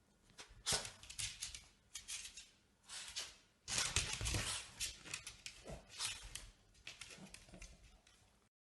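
A dog at play: irregular bursts of noisy scuffling and breathing, with a short falling whine about six seconds in, cutting off suddenly near the end.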